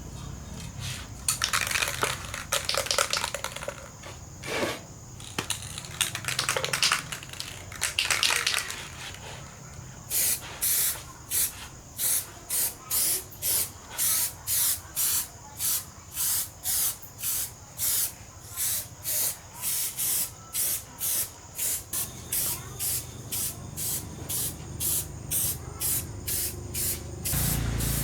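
A spray nozzle hissing in bursts: a few longer, irregular sprays at first, then short, even puffs about two a second. A low hum comes in near the end.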